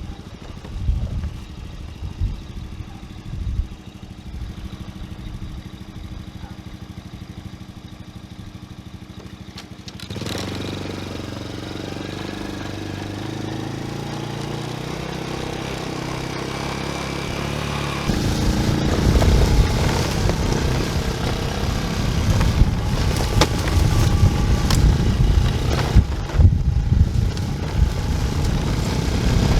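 Honda TRX90 quad's small 90cc engine running. It is low and uneven at first. From about ten seconds in it settles into a steady note that slowly climbs in pitch, and from about eighteen seconds it gets louder and rougher.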